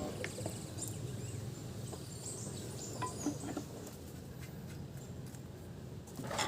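Light clicks and taps of metal transmission parts being handled, over a faint steady low hum, with a louder knock near the end.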